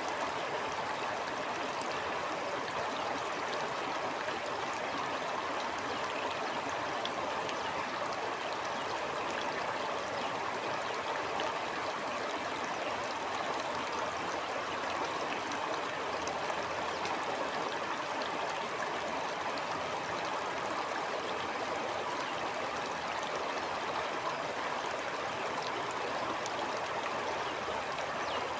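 Stream water flowing over rocks, a steady rushing babble with small splashes and trickles.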